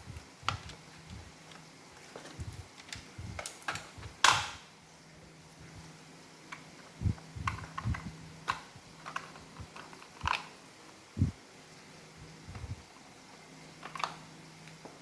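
Scattered clicks and light knocks of plastic parts being handled and fitted together while a Roomba robot vacuum's roller brush assembly is put back together, the loudest knock about four seconds in, over a faint steady hum.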